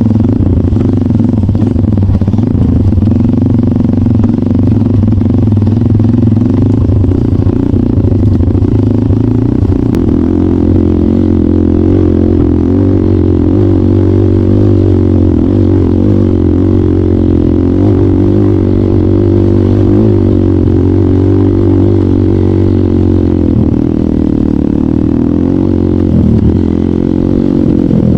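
Trail motorcycle engine running at a fairly steady pace, with small rises and falls in revs.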